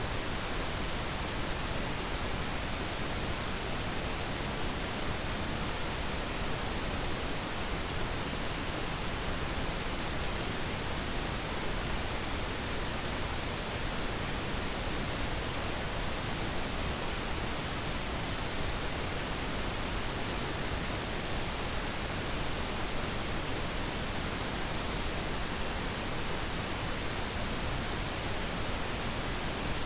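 Steady pink noise: an even hiss across the whole range that does not change.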